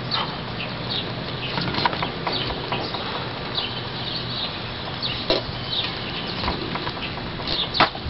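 Small birds chirping: short, high, falling chirps repeating over a steady low hum, with a couple of sharp knocks, one about five seconds in and a louder one near the end.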